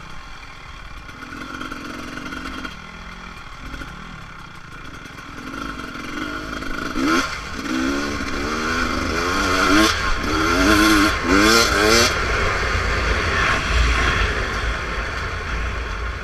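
Beta RR300 two-stroke dirt bike engine running on the trail, then revving up sharply five or six times in quick succession through the middle as the throttle is opened repeatedly. Wind rumbles on the microphone underneath.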